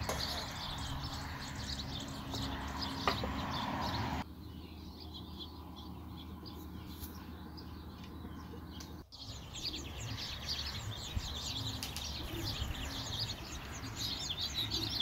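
Small birds chirping and twittering continually in the background over a low steady hum, with a light click about three seconds in. The background level drops abruptly about four seconds in and changes again about nine seconds in.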